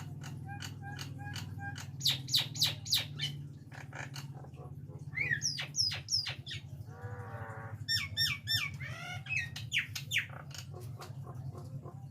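Nias hill myna calling: a run of sharp, sweeping whistles, squawks and clicks, with a short warbling phrase about seven seconds in.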